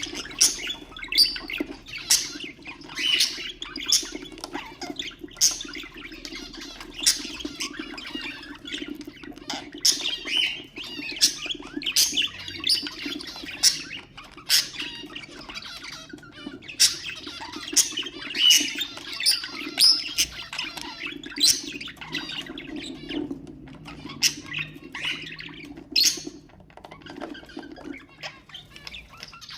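Budgerigars chattering, with many sharp squawks and chirps following one another without pause, over a steady low hum.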